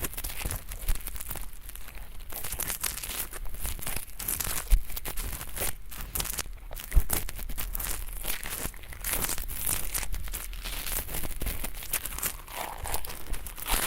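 Ear pick scratching and scraping at a binaural microphone's ears in close, crackly strokes, ASMR ear cleaning of thin, flaky earwax.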